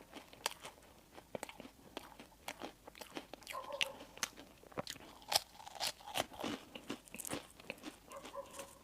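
Close-miked chewing and crunching of crispy bread and fillings, with irregular sharp crunches.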